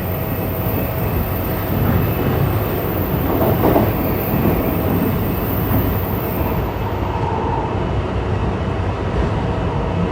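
JR East E235-1000 series electric train running between stations, heard from inside the car: steady wheel-on-rail rumble and running noise. A faint high whine stops about two-thirds of the way through.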